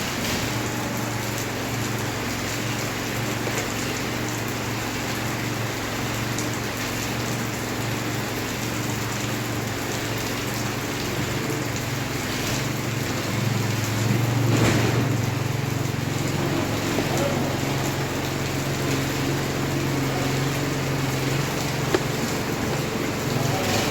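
Heavy rain falling steadily, with a low steady hum underneath it.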